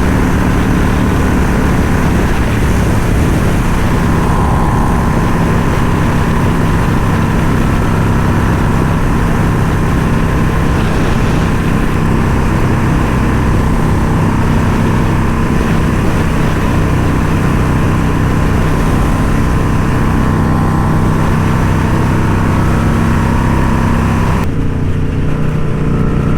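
Indian Scout Bobber's V-twin engine running steadily at riding speed, with wind rushing over the microphone. The wind hiss drops away near the end.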